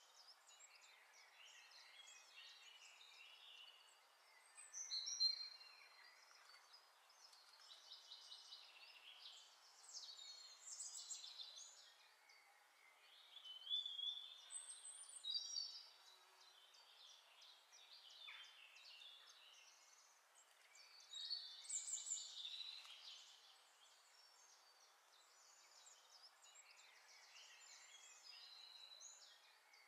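Faint birdsong: chirps and short whistled calls coming in bouts every few seconds over a low steady hiss.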